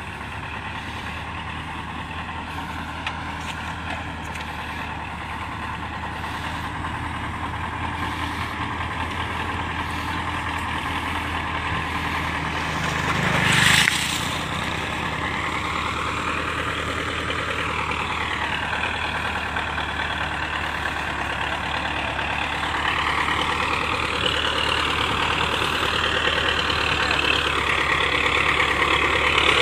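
Massey Ferguson 385 tractor's diesel engine running under load, its pitch rising and falling as it is revved. About halfway through there is a loud, brief rushing noise.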